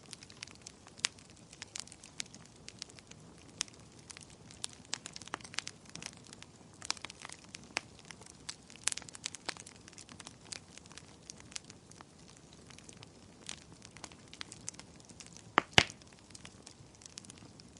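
Fire in a fireplace crackling: irregular sharp snaps and pops over a faint hiss, with two louder pops close together about two seconds before the end.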